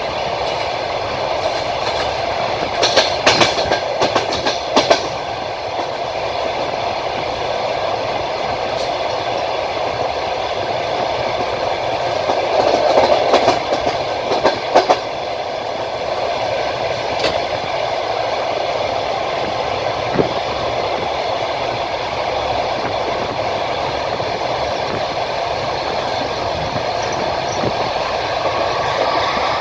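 Passenger train running on the rails, heard from aboard: a steady rolling rumble of the wheels, with clusters of sharp clicks as the wheels cross rail joints, a few seconds in and again about halfway through.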